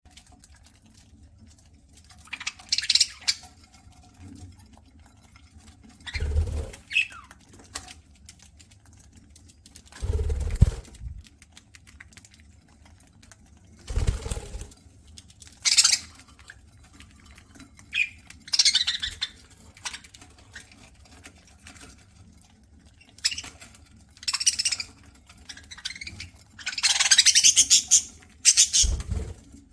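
Pet budgerigars eating: short bursts of pecking and seed-cracking rustle come every few seconds, and between them fall four dull thumps.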